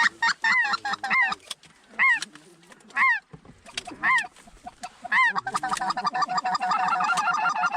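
Goose honking: a quick run of honks, then four single loud honks about a second apart, then from about halfway a dense chorus of many overlapping honks.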